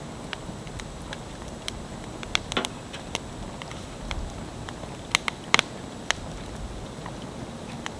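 Wood fire crackling: a steady hiss with irregular sharp pops and snaps, a quick cluster of the loudest pops a little past halfway.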